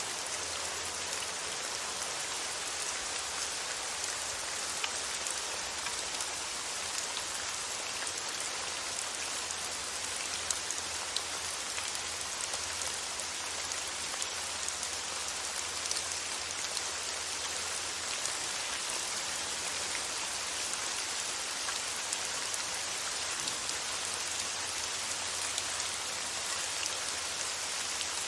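Steady rain falling on a surface, an even hiss with scattered drop ticks, used as soothing white noise.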